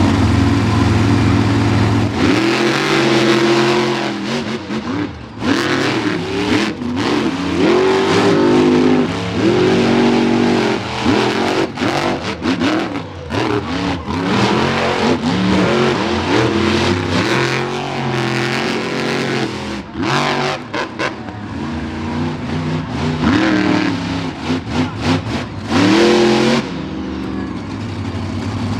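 Monster truck engines revving hard through a race heat, the pitch sweeping up and down again and again as the throttle opens and closes, with many short sharp cracks and bangs among them.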